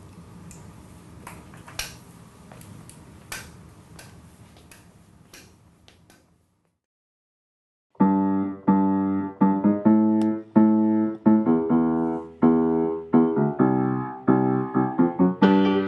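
Faint room noise with a few scattered clicks, cutting to dead silence after about six seconds. About eight seconds in, a piano starts playing a slow score of struck notes and chords that ring and fade, with higher notes joining near the end.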